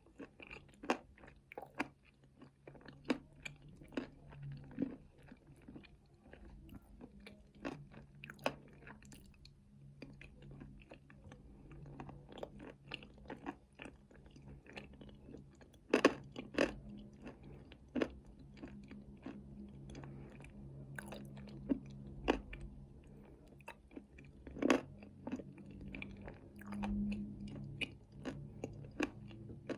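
Close-up chewing and crunching of nuts with chocolate paste: irregular sharp crunches with wet chewing between them, and a few louder bites in the second half.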